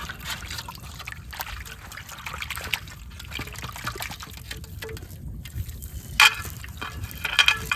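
Water trickling and splashing, with many small splashes and a few sharper, louder ones about six seconds in and near the end.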